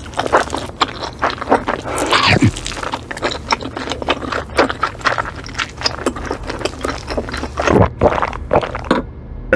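Close-up chewing of a mouthful of pizza: a steady run of quick wet crunches and mouth clicks. Two short falling swoops cut in, about two seconds in and again near the end.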